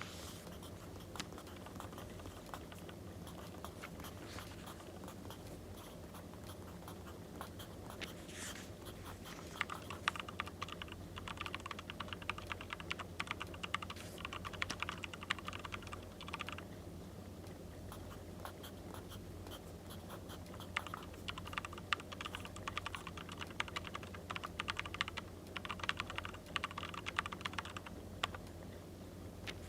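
Writing on paper: stretches of rapid scratching strokes, two longer bouts in the middle and later part, over a steady crackling firewood ambience.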